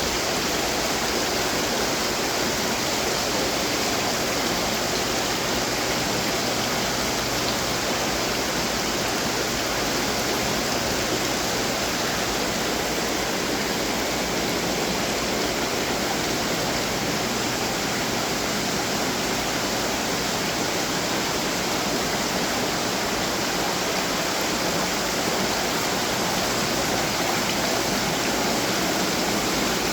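Steady rush and splash of water falling in decorative garden fountains.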